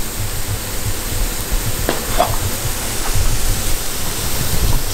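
Ground quail burger patties sizzling in butter on a gas-fired flat-top griddle, a steady frying hiss, with a single sharp click about two seconds in.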